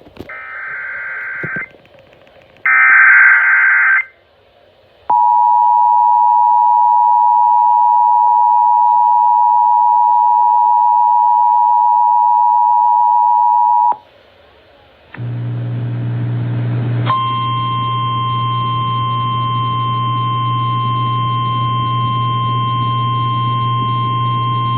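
Emergency Alert System broadcast: two short screeching SAME header data bursts, then the two-tone EAS attention signal held steady for about nine seconds. After a brief gap, a low steady buzz comes in, and a couple of seconds later a single steady tone joins it, typical of the NOAA Weather Radio 1050 Hz alert tone.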